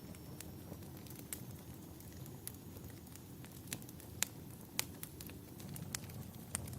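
Wood fire crackling, with irregular sharp pops, the loudest a little past four seconds in, over a steady low rumble.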